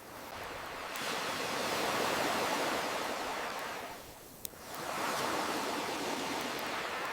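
Ocean waves washing in, the surf hiss swelling and then ebbing away before the next wave builds. A single sharp campfire crackle pops as the wash fades, about four and a half seconds in.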